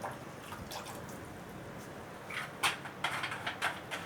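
Water splashing and sloshing in a few short bursts in the second half, over a faint steady background.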